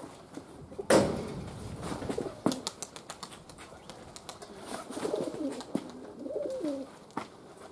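Domestic pigeons cooing, the coos coming mostly in the second half, with a loud sharp knock about a second in and a few smaller clicks.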